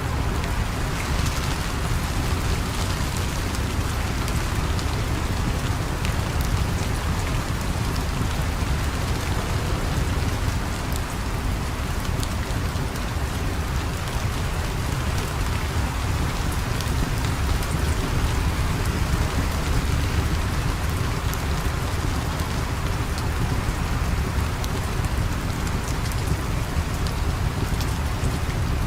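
Steady rain falling, a constant hiss over a deep low rumble, with scattered faint sharp clicks.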